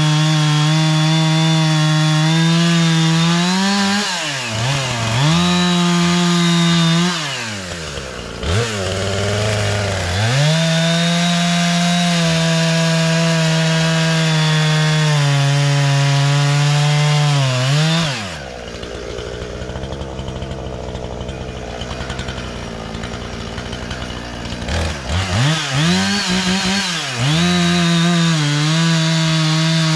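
Husqvarna 460 Rancher 60 cc two-stroke chainsaw cutting wood at full throttle. Its pitch drops briefly twice in the first ten seconds as the throttle eases. About 18 seconds in it falls to idle for several seconds, then revs back up and cuts again near the end.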